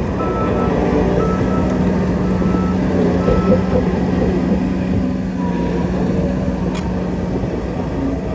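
Heavy diesel earthmoving machine running steadily, its reversing alarm beeping about once a second and stopping about three seconds in.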